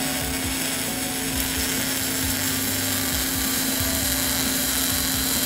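MIG welding arc running a continuous bead on a steel auger shaft: the steady hiss of a wire-feed weld. This is the second, slightly weaved fill pass over the root in a beveled joint.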